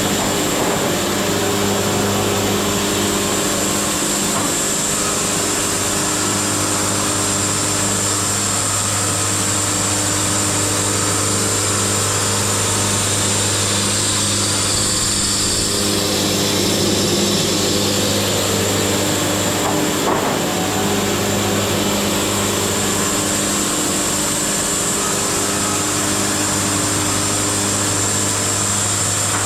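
Wood-Mizer LT70 sawmill running steadily: a constant low engine hum with a high whine, which drops lower for a few seconds about halfway through before returning.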